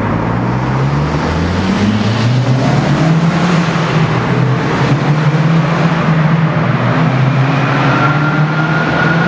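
Mazdaspeed Axela's turbocharged 2.3-litre four-cylinder through a GP Sports EXAS EVO Tune aftermarket muffler, accelerating: the engine note climbs over the first two seconds, drops back about two and a half seconds in as it shifts up, then pulls again with a slowly rising pitch. A thin high whine comes in near the end.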